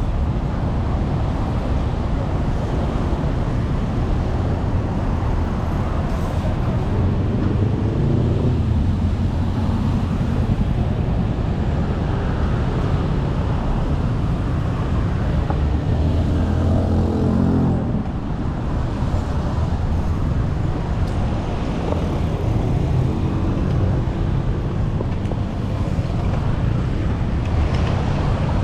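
City road traffic heard from a bicycle: a steady rumble of engines and tyre noise, with one vehicle's engine revving up close by for a couple of seconds past the middle before it drops away.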